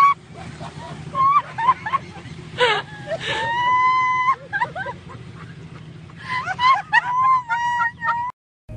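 A high-pitched voice whining or squealing in a string of short rising and falling calls, one held steady for about a second, over a low steady hum; it cuts off abruptly near the end.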